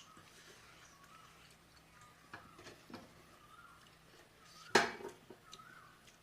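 Dishes and utensils clinking: scattered small knocks and one loud sharp clink a little before five seconds in.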